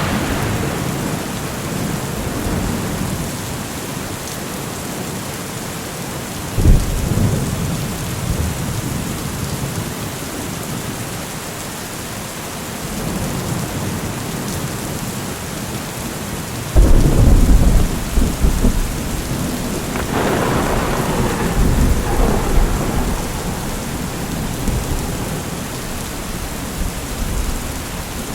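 Steady rain falling through a thunderstorm, with a sudden thunderclap about seven seconds in and a long, louder crack and rumble of thunder starting about seventeen seconds in, rolling on for several seconds.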